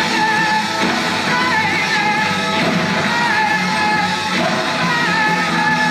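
Rock music with a wavering sung vocal line over guitar, played back through the iClever BoostSound BTS09 Bluetooth speaker.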